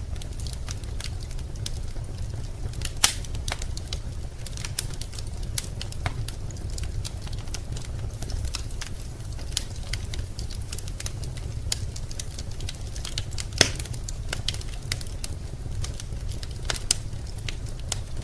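Wood fire burning in a fireplace, crackling with irregular sharp clicks and a few louder pops, two of them standing out about 3 and 13 seconds in, over a low steady rumble.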